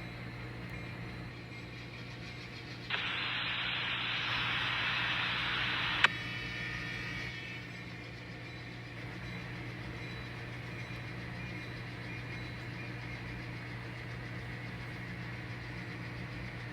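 Radio static: a burst of hiss comes in about three seconds in and cuts off with a sharp click about three seconds later, over a steady low hum.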